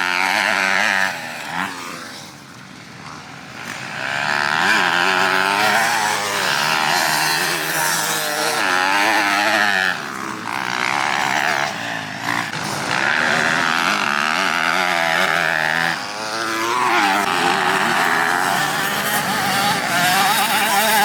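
Motocross bike engines revving hard on the track, the pitch rising and dropping again every second or two as the riders work the throttle and change gear. There is a quieter lull about two to four seconds in.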